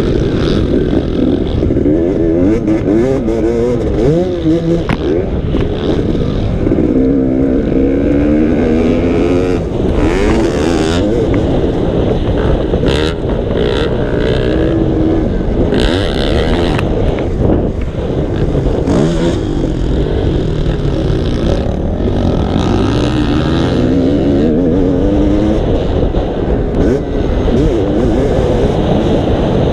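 Motocross bike engine running as it is ridden, the revs rising and falling again and again with throttle and gear changes.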